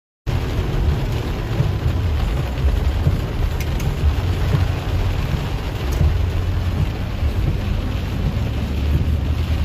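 Heavy rain pelting a car's roof and windshield, heard from inside the cabin while driving, over a deep steady rumble. It starts after a split second of silence.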